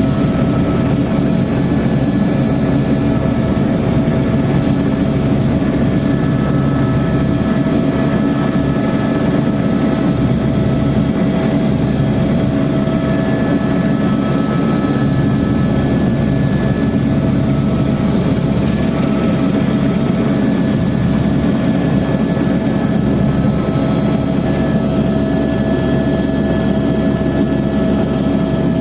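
Helicopter in flight: a loud, steady drone of turbine engine and rotors, with a few faint steady whining tones above the low rumble.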